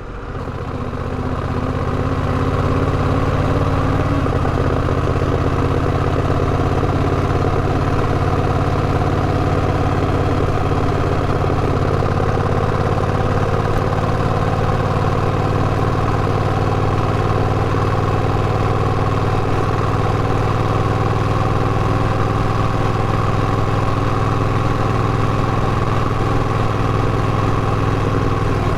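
An engine running steadily at constant speed, a deep even hum that fades in over the first couple of seconds and then holds unchanged.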